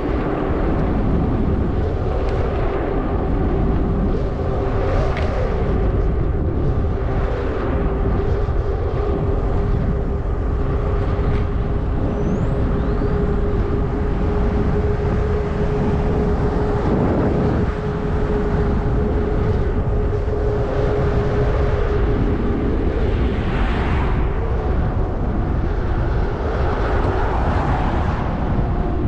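Zota Zephyr fat-tire e-bike being ridden: wind rushing over the microphone, with a steady whine through most of it that fades out a few seconds before the end.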